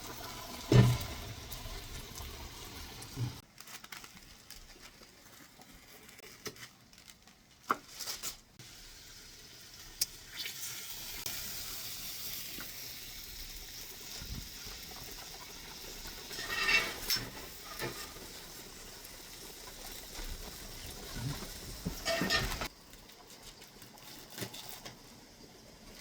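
Lamb shoulder sizzling over an open wood fire, a steady hiss with scattered crackles and knocks and a sharp thump about a second in. The sound drops away sharply near the end.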